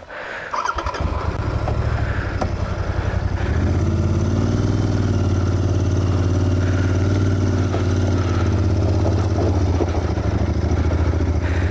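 A Royal Enfield Continental GT 650 motorcycle, whose parallel-twin engine starts about a second in and runs. Its note grows louder and fuller about three and a half seconds in and then holds steady.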